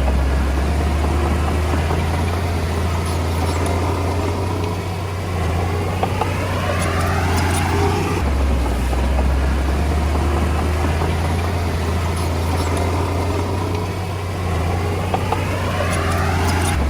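Komatsu D20A bulldozer's diesel engine running with a steady deep drone, its pitch climbing twice: once about five seconds in and again near the end.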